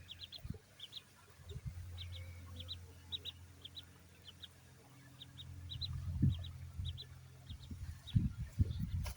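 Ducklings peeping: short, high peeps in quick pairs and threes, repeated throughout. A low steady hum runs beneath, with a few low thumps near the end.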